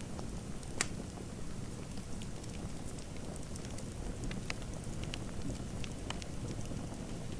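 Fireplace fire crackling: scattered sharp pops and snaps over a steady low rumble, with one louder pop about a second in.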